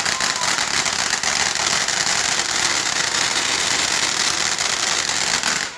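A garden firework spraying sparks with a steady, loud crackling hiss that cuts off abruptly near the end.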